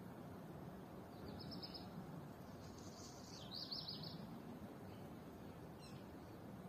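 A small bird singing faintly, two quick trilled phrases of high notes, about a second in and again around the middle, over a steady low hum of outdoor background noise.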